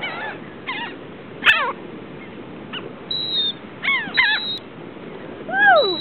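Gulls calling: a series of short harsh cries that fall in pitch, some overlapping, with the loudest, longest call near the end.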